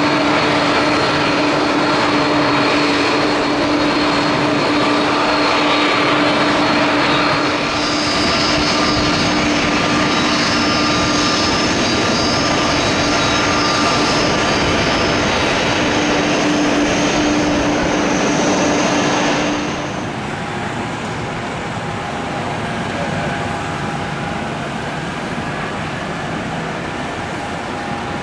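Airbus A330-200 airliner's jet engines running close by: a steady rushing noise with a held whine. About 20 seconds in, the sound drops in level and the whine fades.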